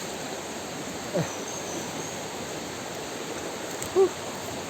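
Steady rush of a river stream. A short sound falls in pitch about a second in, and a brief, loud pitched call sounds about four seconds in.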